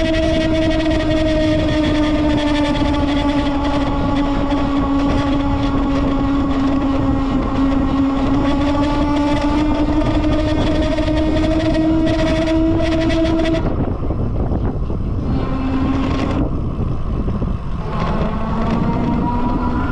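Lectric XP 2.0 electric bike making its strange noise: a steady horn-like drone whose pitch sags and rises slowly, over a constant rushing noise. The drone cuts out about fourteen seconds in, returns briefly, then comes back rising near the end.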